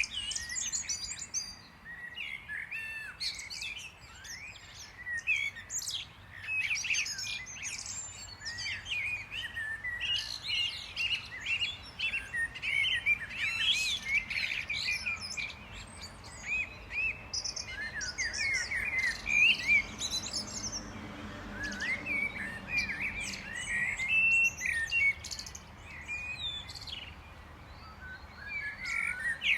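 Many small birds chirping and twittering at once, a dense, overlapping run of short high calls. A faint low hum rises and fades in the middle.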